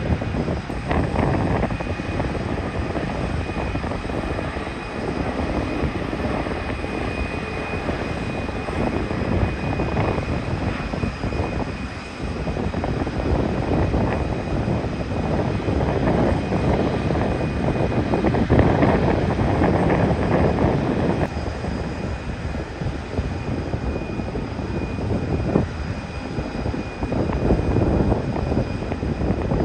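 Airbus A320neo's CFM LEAP-1A turbofan engines on a landing airliner: a steady, loud jet rush with a thin high whine running through it, swelling a little past the midpoint.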